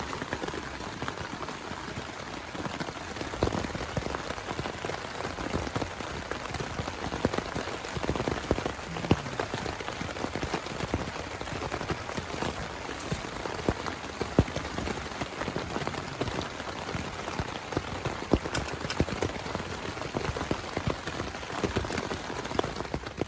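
Heavy rain falling steadily, with many individual drops striking close by as sharp taps over a continuous hiss.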